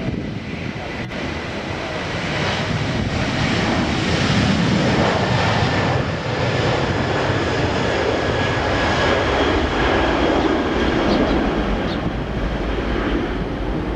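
Airliner jet engines running with a steady noise that grows louder a few seconds in, with a thin steady whine over it.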